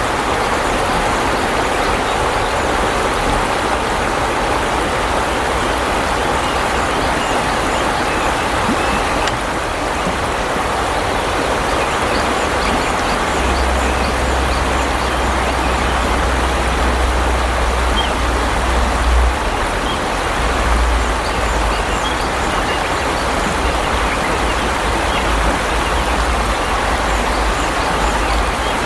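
Steady rush of flowing water, as from a stream or weir. A low rumble joins it about halfway through and runs on, on and off, to near the end.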